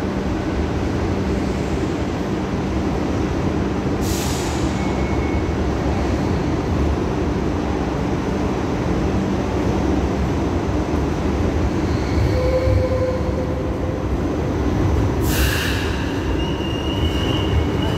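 Hong Kong Light Rail Phase III train running slowly into a terminus platform: a steady low rumble with brief high-pitched wheel squeals. Two short hisses come about four seconds in and again about fifteen seconds in.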